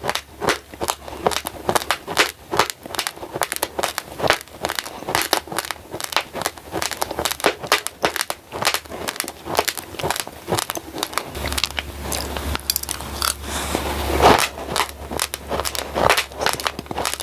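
Raw glutinous rice grains chewed close to the microphone: a fast, steady run of sharp crunches, several each second. A low hum comes in for about three seconds past the middle.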